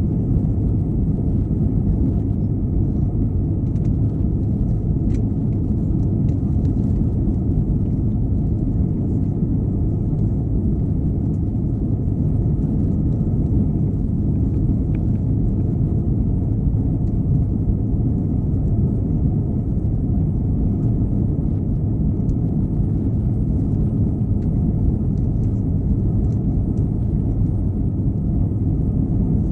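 Steady cabin drone of an Airbus A321-211 in flight, heard from a window seat near the rear. Its CFM56 engines and the airflow over the fuselage make an even low rumble that does not change.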